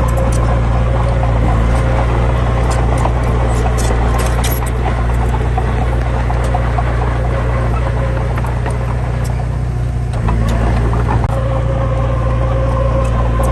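Heavy diesel engine running steadily with a deep drone and scattered sharp ticks and clanks; the drone eases for a moment and comes back strong about ten seconds in.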